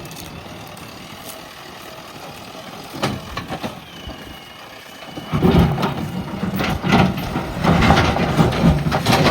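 JCB backhoe loader's diesel engine running steadily, with a few knocks about three seconds in. From about five seconds in, loud cracking and crunching rise over the engine as the machine works, typical of its bucket tearing out brush and small trees.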